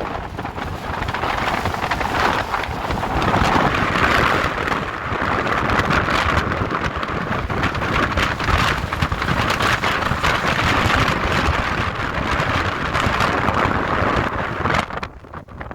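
Strong desert wind buffeting the microphone in a sand storm, a loud rough rush that rises and falls in gusts and drops away briefly near the end.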